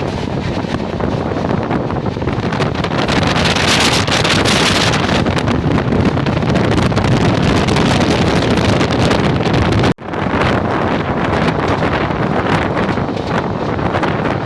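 Wind buffeting the microphone over the rumble of a Shatabdi Express express train running at high speed, heard through the coach's open door. The wind rush swells around four seconds in, and the sound cuts out for an instant about ten seconds in.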